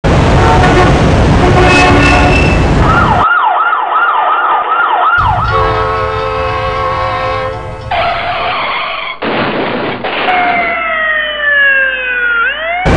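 City street sounds cut together: traffic noise, then an emergency siren in a quick rising-and-falling wail about two or three cycles a second, a held horn-like tone, and near the end a siren tone gliding slowly downward before a brief rise.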